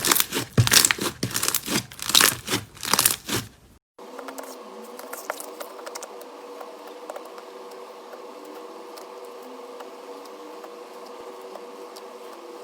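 Slime being squeezed and worked, making loud crackling and crinkling pops. After an abrupt cut about four seconds in, it gives way to a much quieter stretch of steady hum with faint scattered clicks.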